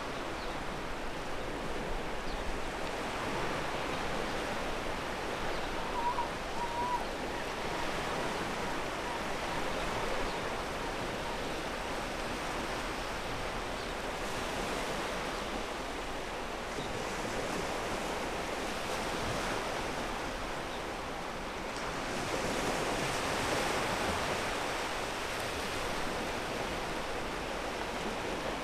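Ocean waves breaking and washing over a pebble beach: a continuous surf noise that swells and eases as each wave comes in, with the strongest surge about two-thirds of the way through.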